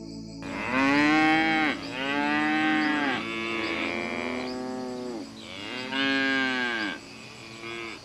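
Cows mooing: about five long moos one after another, each rising and then falling in pitch, a couple of them overlapping, with a softer moo near the end.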